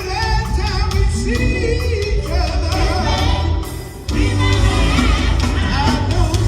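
Live gospel group singing with band accompaniment, voices over a heavy bass and drum beat; the music drops briefly about four seconds in before coming back.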